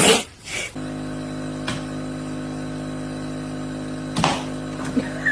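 A steady mechanical hum, like a small motor or household appliance running, starts about a second in after a couple of short noisy bursts. Two sharp clicks or knocks sound over it.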